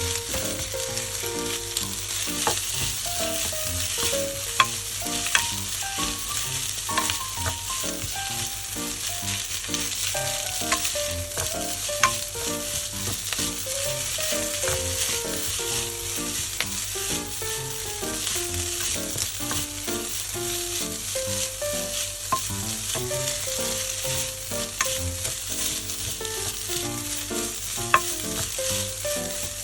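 Fried rice sizzling steadily in a hot oiled pan while it is stirred, with a sharp scrape or click of the utensil against the pan every few seconds. Soft background music plays underneath.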